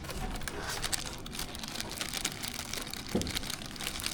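Plastic packaging crinkling and rustling as small parts are handled, with many small clicks and one louder knock about three seconds in.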